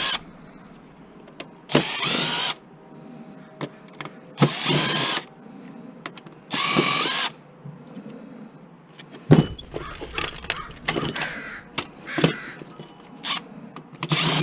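Cordless drill/driver backing screws out of a game console's housing in three short bursts, each well under a second. From about halfway on come clicks and knocks of parts and screws being handled.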